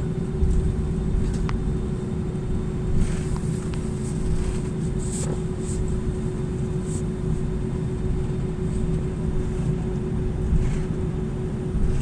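Cabin noise inside an Airbus A320 on the ground after landing: a steady low rumble with a constant hum over it, and a few faint clicks.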